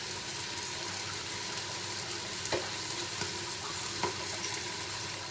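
Chicken legs frying in their own rendered fat in a Saladmaster pan, with no added oil, sizzling steadily. A few light clicks are heard along the way.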